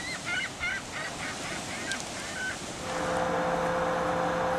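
A run of short, pitched bird calls, several a second, stopping about two and a half seconds in. Then a steady machine hum with a low and a middle tone.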